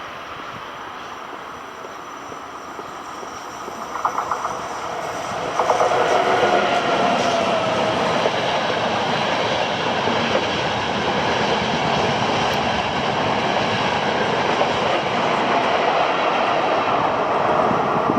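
Intercity train passing on the near track. Its rumble grows, wheels click over rail joints about four seconds in, then the carriages roll by loudly and steadily.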